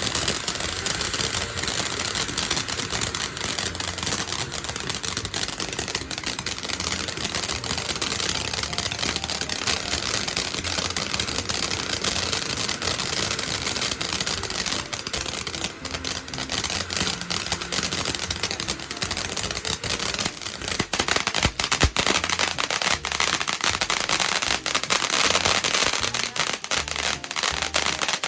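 Backyard consumer fireworks going off in a dense, continuous run of crackles and pops, with one louder sharp bang about three-quarters of the way through.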